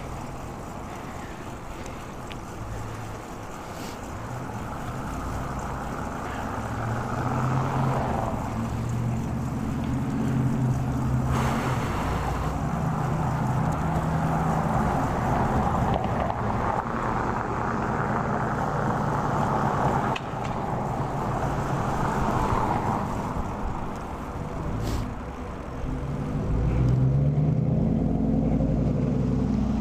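Motor traffic passing on the road: engine drone and rushing tyre noise that swell and fade, once about a third of the way in and again near the end.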